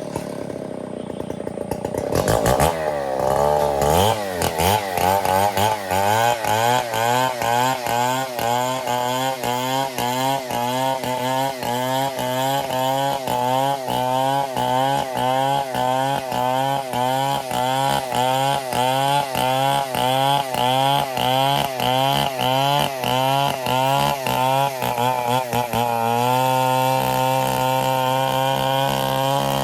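Stihl 070 two-stroke chainsaw speeding up about two seconds in, then running under load in the cut through ironwood, its engine pitch rising and falling about twice a second. Near the end the pitch steadies and runs higher.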